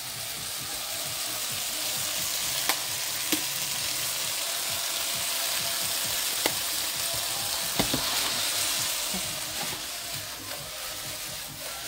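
Fajita filling sizzling as it fries in a hot pan and is stirred, the utensil clacking against the pan four times. The sizzle swells through the middle and eases near the end.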